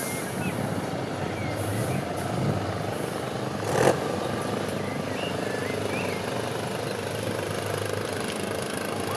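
Off-road trial truck's engine running steadily, with one short, loud burst of noise about four seconds in.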